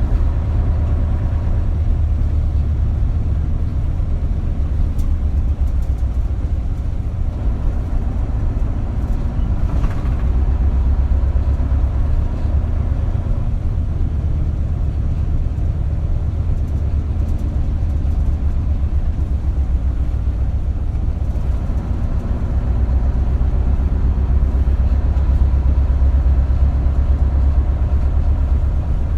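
Isuzu Erga city bus (KL-LV280L1) running on the road, heard from inside the cabin as a steady low engine rumble with road noise. The engine grows louder about ten seconds in and again from about twenty-two seconds.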